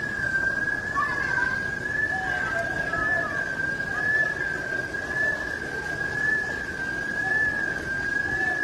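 A steady, high alarm tone with a slight slow waver, sounding without a break over a constant rushing background noise.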